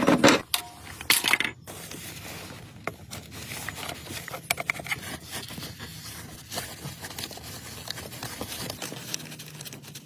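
Hand work on parts and tools: a loud scraping rustle about a second in, then scattered small clicks, taps and scrapes.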